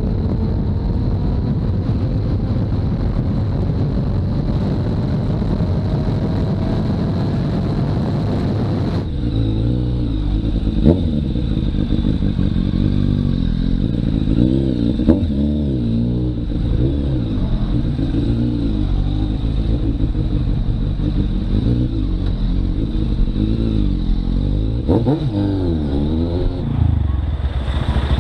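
Motorcycle engine heard from the bike itself while riding, with heavy wind rush for the first nine seconds or so, after which the engine is heard revving up and falling back again and again as the rider speeds up and slows. A few short sharp clicks stand out along the way.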